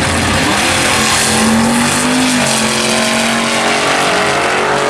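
Drag race cars running down the strip: a loud engine roar whose note climbs and then drops about two and a half seconds in.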